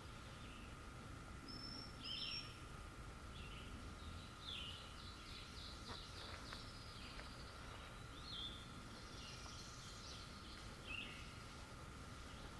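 Faint birdsong from small songbirds: short chirping calls every second or two, with a quick run of notes about halfway through, over a steady thin high hum.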